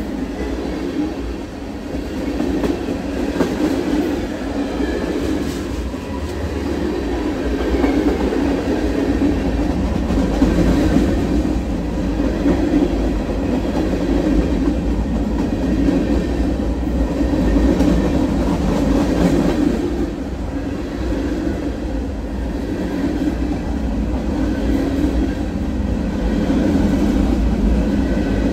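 Freight train cars passing on the next track at close range: a steady, continuous rumble of steel wheels rolling on the rails.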